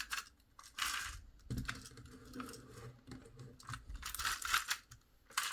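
Plastic toy parts being handled and fitted together: small clicks and taps with a few short rustling, crinkling bursts.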